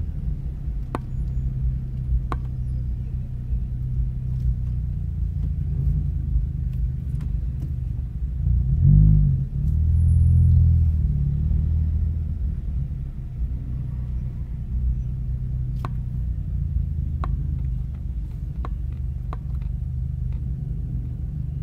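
Car engine and road rumble heard from inside the cabin while the car creeps along at low revs, with a brief rev that rises and falls about nine seconds in. A few light clicks now and then.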